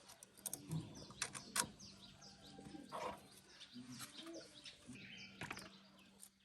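Birds chirping faintly in the background, with a few sharp light clicks and taps scattered through.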